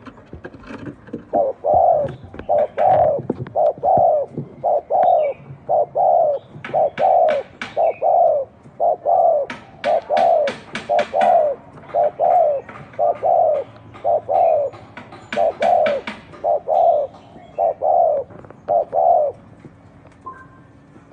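Spotted dove cooing its rapid 'gù' bowing coo: a long run of low, mellow coo notes about two a second, stopping about two seconds before the end. Short runs of sharp clicks sound now and then over the cooing.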